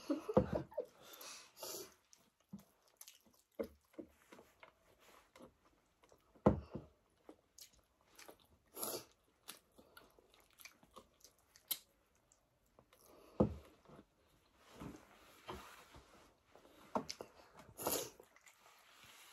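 People chewing and biting chapati with buffalo-meat curry close to the microphone, with scattered small clicks and mouth noises. A few louder sharp knocks stand out, the strongest about six and a half and thirteen and a half seconds in.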